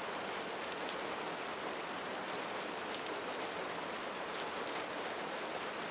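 Steady soft rain falling, an even hiss of many drops with no single sound standing out.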